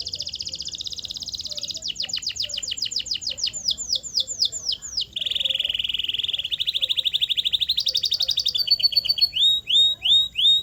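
Canary singing a long song made of rapid repeated phrases: a fast high trill, then a run of quick downward-sweeping notes, a lower rapid roll from about halfway, and rising chirps near the end.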